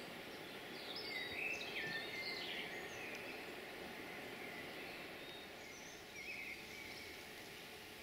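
Birds singing, a few short whistled phrases, the loudest from about one to three seconds in and another near six seconds, over a steady background of outdoor noise.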